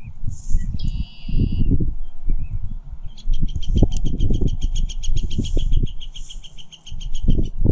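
A small bird's rapid, even trill of high notes, about eight to ten notes a second, beginning about three seconds in and running for roughly four and a half seconds. A short high whistled note comes just before it, near the start. Under both, irregular low rumbling thumps are the loudest sound.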